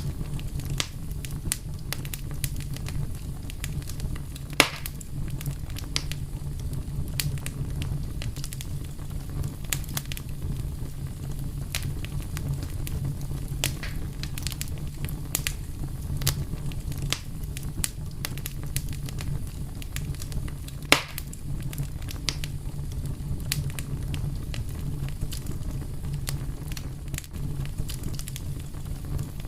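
Wood fire crackling: a steady low rumble of burning with frequent small irregular crackles, and two sharper pops, one about four and a half seconds in and another about twenty-one seconds in.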